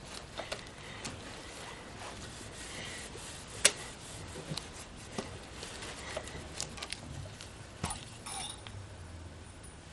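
Scattered light clicks and knocks of tools and parts being handled, with one sharp click about three and a half seconds in and another near eight seconds.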